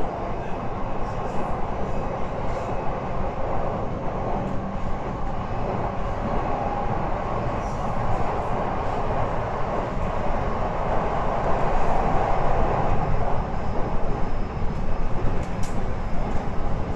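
Local train running along the line, heard from inside the passenger car: a steady rumble of wheels on rail and running gear. It grows a little louder about two-thirds of the way through.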